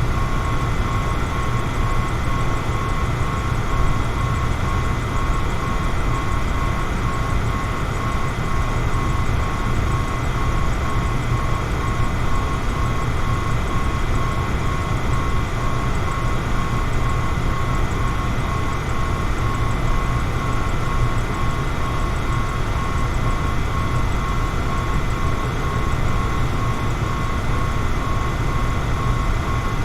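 Electric fan running steadily: a constant rush of air with a low rumble and a thin, steady whine.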